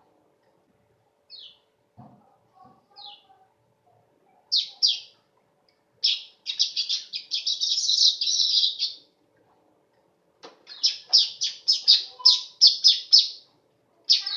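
Manyar weaver bird singing: a few scattered high chirps, then a dense run of chattering notes about six seconds in, a short pause, and a quick series of sharp chirps near the end.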